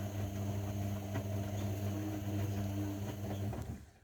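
Zanussi washing machine running with a steady low hum and a few light ticks, which stops about three and a half seconds in.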